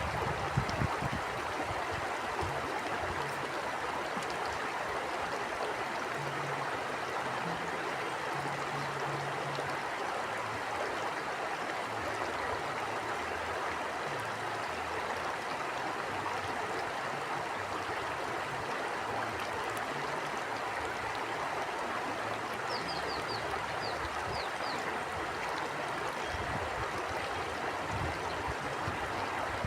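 Stream water flowing steadily. A few short, faint high chirps come about three-quarters of the way through.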